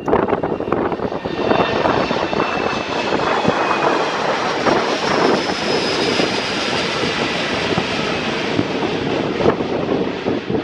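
Airbus A330-900's Rolls-Royce Trent 7000 turbofans during take-off, a loud, steady rushing jet noise with faint high whining tones above it.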